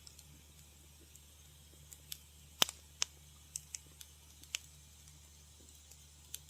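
Wood fire crackling in a fireplace: scattered sharp snaps and pops, the loudest about two and a half seconds in, over a low steady hum.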